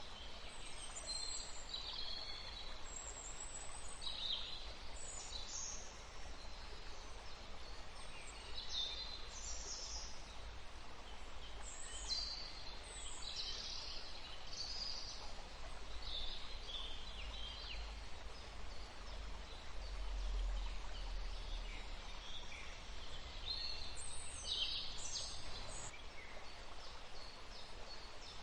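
Wild songbirds chirping and calling, many short high chirps overlapping, busiest about halfway through and again near the end, over a faint low rumble.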